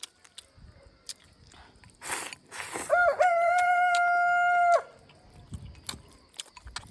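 A rooster crows once, about three seconds in: a single long call lasting nearly two seconds, held on one pitch and dropping at the end. Just before it come a couple of short rustling bursts, and faint clicks are scattered throughout.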